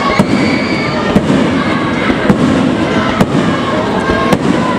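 Fireworks bursting overhead: sharp bangs about once a second over a steady din.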